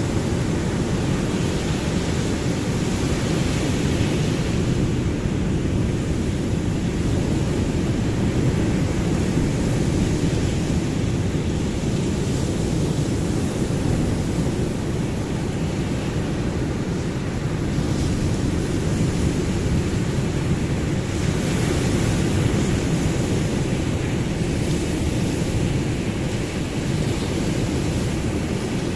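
Ocean surf: a steady, deep wash of waves with no clear breaks, brightening into a hissier wash about three seconds in and again about two-thirds of the way through.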